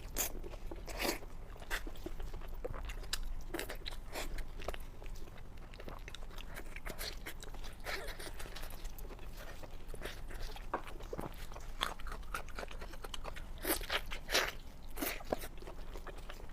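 Close-miked biting and chewing of a large roasted turkey wing: a steady run of crunches and crackles, with a few louder crunching bites near the start and again near the end.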